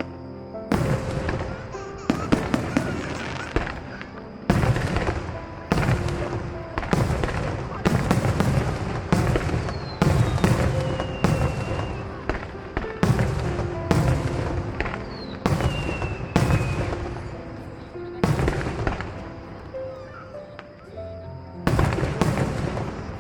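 Aerial fireworks shells bursting in a rapid, irregular series of loud booms and cracks, some in quick pairs, each with an echoing tail. Music plays under them.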